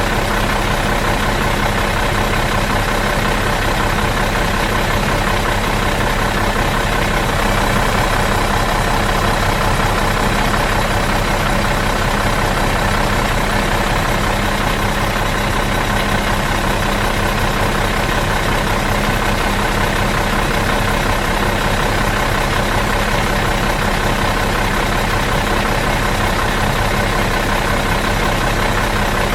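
Bus diesel engine idling steadily in neutral, an even unchanging drone.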